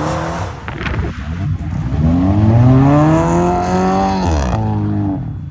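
Car engine revving up, its pitch climbing over about two seconds, then dropping sharply about four and a half seconds in as the throttle is released.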